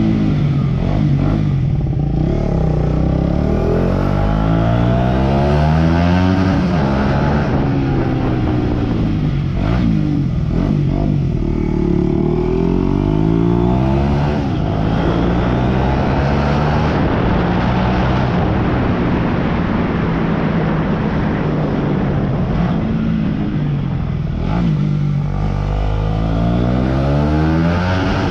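Aprilia RS4 125's single-cylinder four-stroke engine through an aftermarket Scorpion exhaust, revving up and falling back over and over, its pitch climbing for a few seconds and then dropping.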